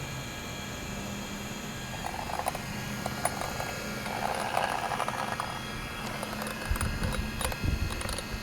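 Two-stroke gas engine of a 1/5-scale RC monster truck running steadily at low speed, with scattered clicks and a few low thumps near the end.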